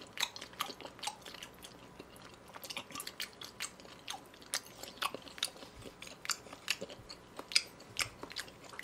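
Close-up chewing of raw beef sashimi: a run of short, irregular mouth clicks and smacks, several a second.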